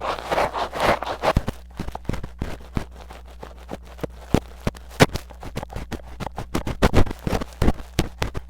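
Metal tweezers scraping and tapping deep inside a mini microphone's ear in ear-cleaning ASMR: a few rhythmic scratching strokes at first, then mostly sharp clicks and taps with some scraping near the end.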